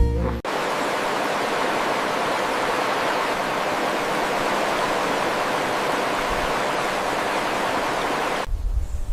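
Steady rushing noise with no pitch, cutting in abruptly about half a second in and stopping abruptly near the end.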